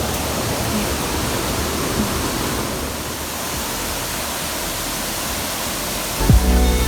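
Steady rushing of a waterfall. Background music with a low beat comes in near the end.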